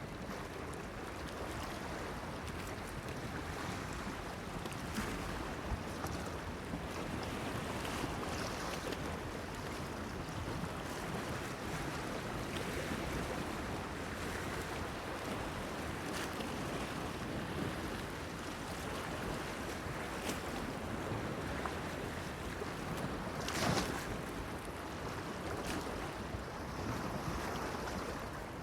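Waves washing against a breakwater pier with steady wind, and a brief splash every few seconds; the loudest splash comes near the end.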